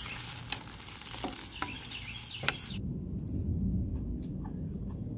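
Food sizzling in a wok with a spatula clicking and scraping against the pan, and short bird chirps over it. The sizzle stops about three seconds in, leaving a low outdoor rumble and a few chirps.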